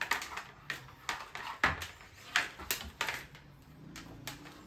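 Irregular knocks, clicks and rustles of groceries and packaging being handled and put away, about eight sharp strokes, the loudest in the first three seconds and fewer near the end.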